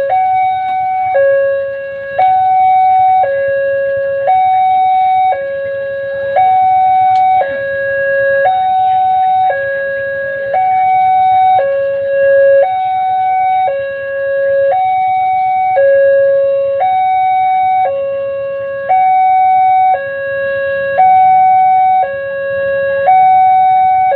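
Railway level crossing warning alarm sounding a two-tone electronic hi-lo signal, a higher and a lower tone taking turns about once a second, over a low rumble.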